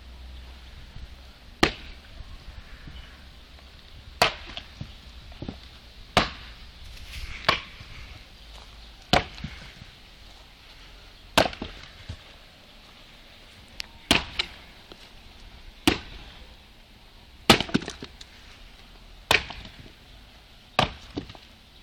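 An axe chopping firewood: about a dozen sharp, separate blows into the wood, roughly one every two seconds.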